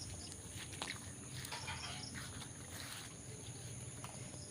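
Crickets and other insects chirping: a steady high buzz with a quick, evenly pulsed chirp, with a few faint soft swishing sounds in the middle.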